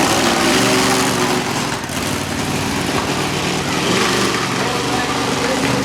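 Monster truck engine running loudly, its pitch rising and falling a little as the throttle changes.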